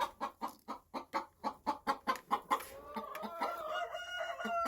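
Chickens clucking rapidly, about five clucks a second, then about three seconds in one bird lets out a long drawn-out call that rises slightly and then holds its pitch.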